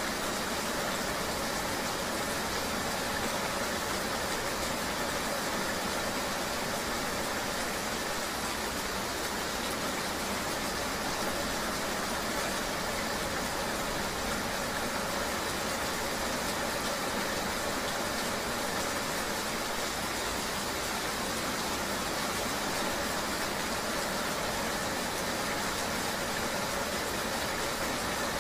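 Steady rain ambience: an even, unchanging wash of noise with no separate drops, knocks or other events standing out.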